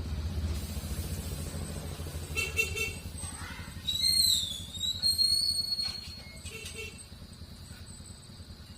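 A motor vehicle engine, most likely a motorcycle, running with a steady low rumble that fades away over the last few seconds. A few short high whistling chirps come through in the middle.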